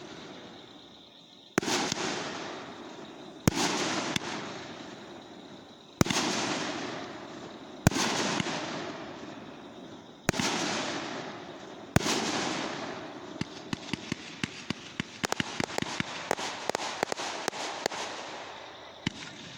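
Fireworks going off: six sharp bangs about two seconds apart, each followed by a fading rumble and crackle. Then comes a quick run of many small cracks over the last several seconds.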